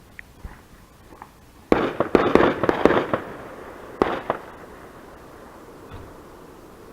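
Fireworks going off: a sudden rapid run of sharp bangs starting about two seconds in and lasting about a second and a half, then two more bangs about a second later.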